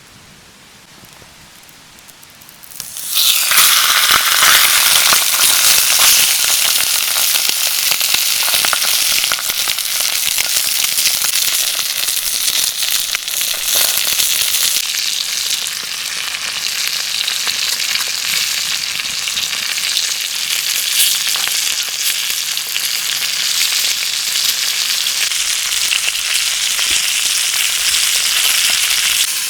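Food sizzling and spitting in hot oil, starting suddenly about three seconds in as it goes into the hot pan, then frying steadily with a crackling hiss.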